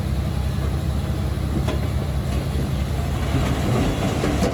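Heavy earthmoving machine's diesel engine running steadily under work, with a couple of sharp knocks, one early and one near the end.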